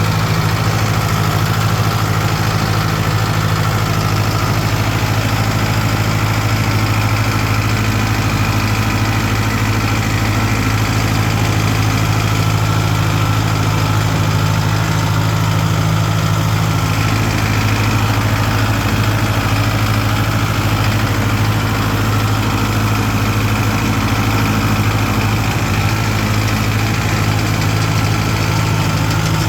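Tractor engine running steadily at a constant speed, a loud, even drone with no revving.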